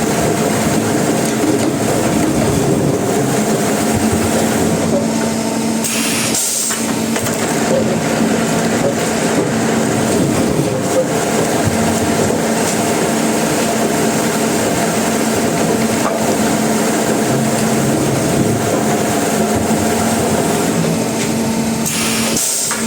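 Sawmill machinery running loudly and steadily, with a constant hum under a dense mechanical clatter, briefly dropping away about six seconds in.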